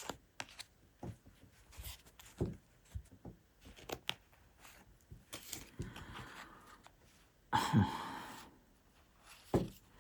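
Tarot cards being handled and laid out on a table: scattered soft taps and clicks, with one louder rustle about three-quarters of the way in.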